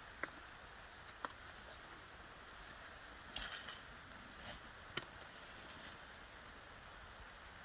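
Quiet outdoor ambience: a faint steady hiss with a handful of small, sharp ticks and clicks scattered through it.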